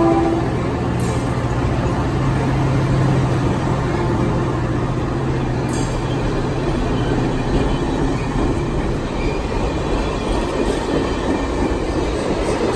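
Caltrain diesel-hauled commuter train running past, with a steady low engine hum and the rumble of wheels on rail; the tail of a horn blast cuts off right at the start.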